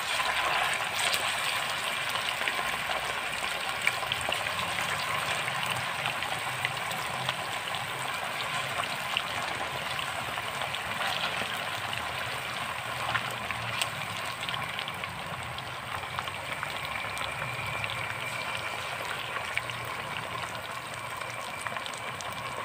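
Chicken wings deep-frying in plenty of hot oil in a pan: a steady sizzle with scattered small pops and crackles.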